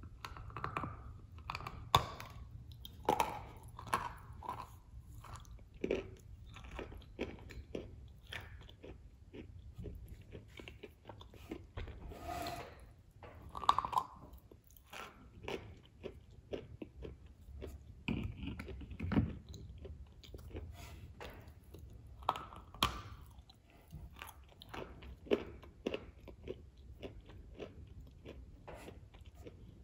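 Biting and chewing of a soaked chocolate cookie topped with whipped cream: wet, irregular mouth clicks and chewing sounds, with a few louder bites.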